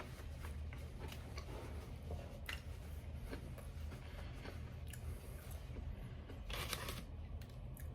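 Close-up chewing and biting of breaded chicken nuggets, with scattered small mouth clicks and a brief louder crunchy noise about six and a half seconds in, over a steady low hum.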